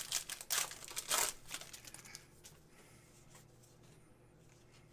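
A trading-card pack's wrapper crinkling and tearing as it is opened, a rapid cluster of crackles in the first couple of seconds, then only faint room tone.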